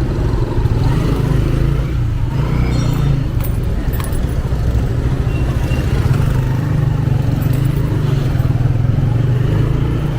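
A 125cc motorcycle engine running steadily under way, a low rumble, with road traffic around it. A brief sharp click comes about four seconds in.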